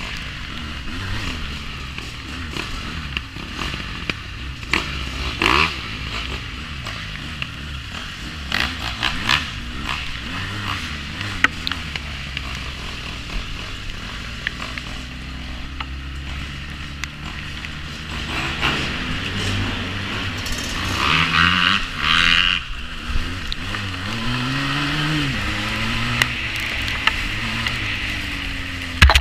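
350cc quad bike engine running under way over rough ground, revving up and down with a few rises and falls in pitch near the end, with scattered knocks and scrapes.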